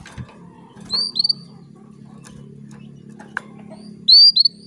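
Female canary calling to a male: two pairs of short, high chirping call notes, one pair about a second in and another about four seconds in, used to stimulate male canaries. A steady low hum runs underneath.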